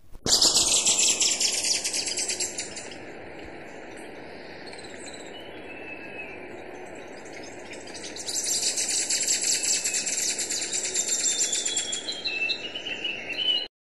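Western hemispingus singing: a rapid, high-pitched trill in two long bouts, the first lasting about three seconds and the second starting about eight seconds in and running until it cuts off abruptly near the end, with quieter sounds between.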